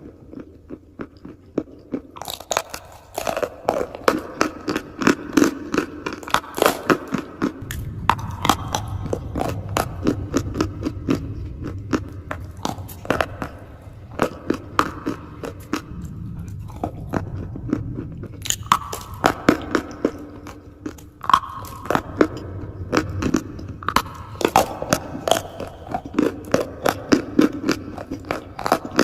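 Chalk being bitten and chewed close to the microphone: runs of crisp, rapid crunches with brief pauses between bites.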